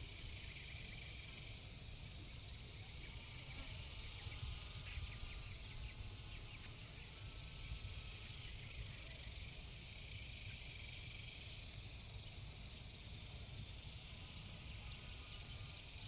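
Faint outdoor background: a steady, fast-pulsing high-pitched insect trill over a low, even rumble.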